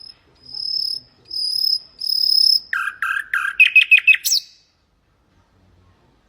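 Common nightingale singing: four drawn-out high whistled notes, then a quick run of lower chirps ending in one sharp up-and-down sweep. The song stops about four and a half seconds in.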